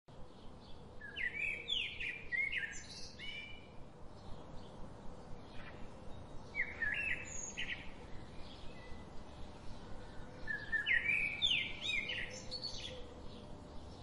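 Songbirds singing: three bursts of quick, sliding chirps about four seconds apart, with fainter chirps between them over a steady hiss of outdoor background noise.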